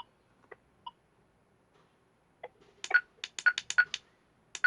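Quasar ARM metal detector giving short electronic beeps: a few single ones in the first second, then a quick run of about eight near the end.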